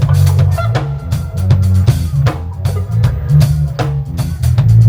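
Live lovers rock reggae band playing: a heavy bass line under a drum kit beat, with guitar.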